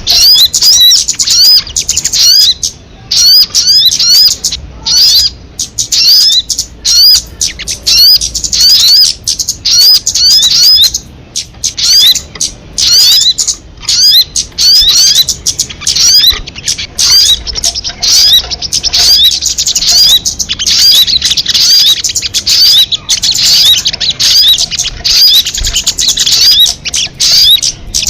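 Sogon bird call recording: a fast, unbroken stream of high, sharp chirps, each note a quick rising hook, interrupted only by a few brief pauses.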